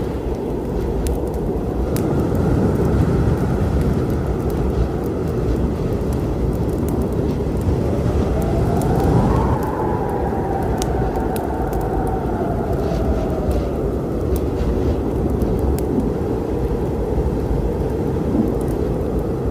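Storm wind rumbling steadily, with a whistling howl that rises and falls in pitch about halfway through. Scattered crackles of a wood fire sound throughout.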